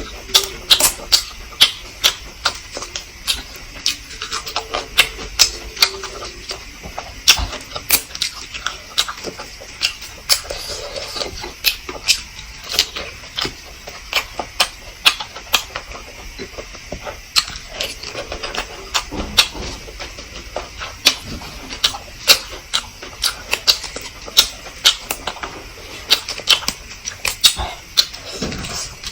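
Close-miked eating sounds from someone eating balut (fertilized duck eggs): a fast, irregular string of wet clicks and lip smacks of chewing.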